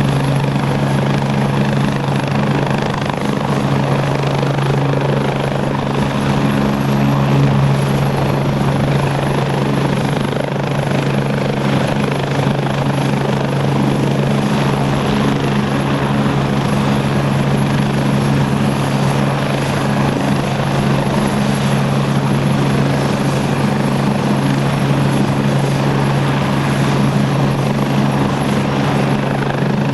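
Agusta A109E Power helicopter's twin turbine engines and main rotor running steadily, a low, even hum under a thin, high turbine whine.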